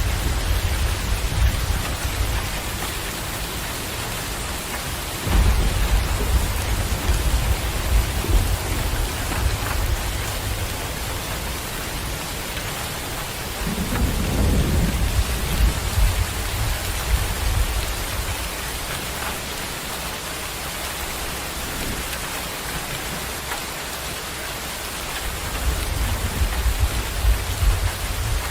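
Steady rain falling, with low rolls of thunder rumbling four times: at the start, about five seconds in, around the middle, and near the end.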